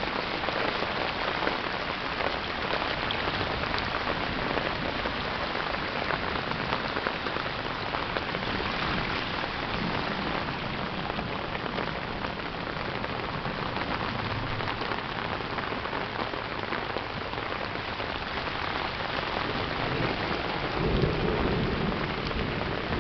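Heavy rain falling steadily together with muddy floodwater churning at an overwhelmed street drain, a constant hiss. About 21 seconds in, a low rumble of thunder swells under it.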